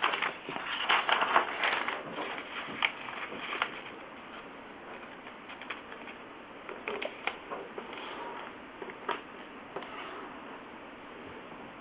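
A sheet of paper being handled and folded: irregular rustling and crackling with sharp creasing clicks, busiest in the first two seconds, then sparser.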